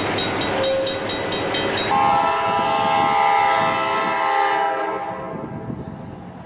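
A train rolling with a rapid, regular clicking. About two seconds in, a train horn sounds a steady chord of several notes for about three seconds, then fades away.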